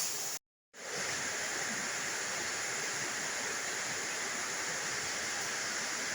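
Steady rain: an even, unbroken hiss that begins after a brief silent gap about half a second in.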